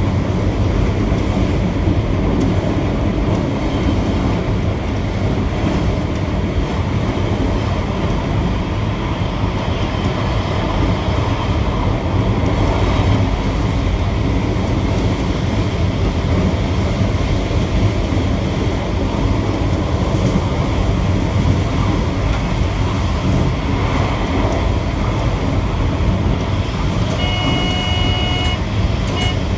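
Train running steadily along the track, heard from the driver's cab: a continuous rumble of wheels on rails. Near the end a short electronic beep sounds for about a second, followed by a brief second blip.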